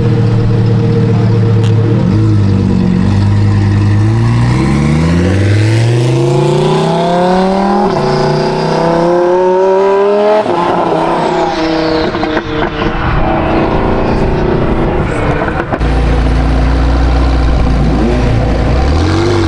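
A sports car engine idles, then accelerates away, its pitch climbing through a gear change and fading off. A deep, low engine rumble from another car comes in near the end.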